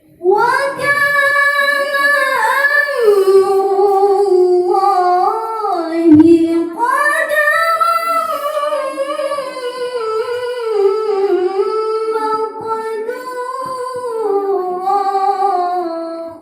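A woman's solo voice reciting the Quran in the melodic tilawah style, drawing out long ornamented phrases that step down and up in pitch, with a short breath about six seconds in.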